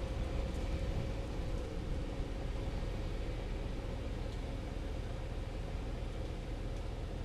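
Hydraulic excavator's diesel engine running steadily, a low rumble with a held drone and a few faint ticks.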